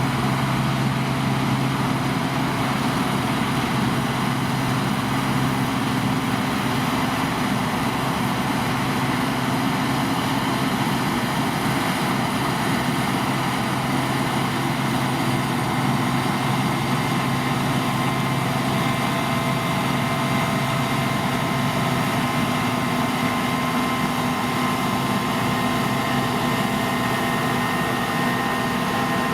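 Deutz-Fahr C9306 combine harvester running steadily while harvesting barley: a constant machine drone. A low hum fades about six seconds in, and a steady higher whine comes in during the second half.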